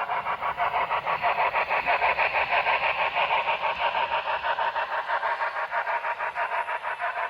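HO scale model train running past on the layout: a rapid, even clicking of about ten beats a second that swells and then eases as it passes.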